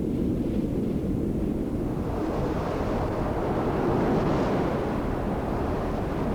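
Rough sea surf and wind: a steady rush of breaking waves that grows fuller about two seconds in.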